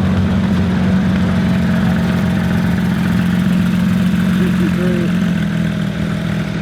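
A car engine idling close by, a loud, steady low hum that holds an even pitch throughout.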